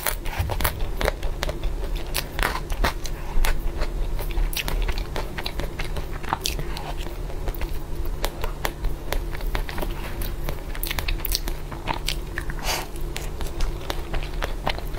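Close-miked eating: a cookies-and-cream dessert with Oreo crumbs and a chocolate biscuit stick being bitten and chewed, a fast, irregular run of crisp crunches.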